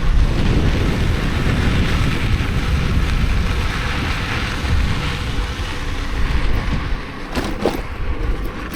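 Wind buffeting the microphone while riding a mountain bike, with the rumble of its tyres rolling over a desert dirt road. A couple of short knocks sound near the end.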